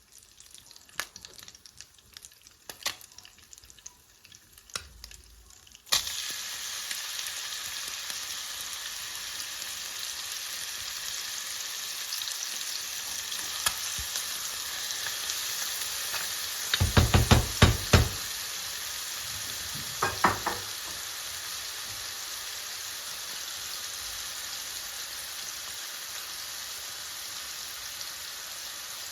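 Food sizzling in a hot pan, starting suddenly about six seconds in and crackling steadily after that, after a few light kitchen clicks. A quick run of loud knocks comes about two-thirds through, and a few ringing clinks follow, like a utensil striking the pan.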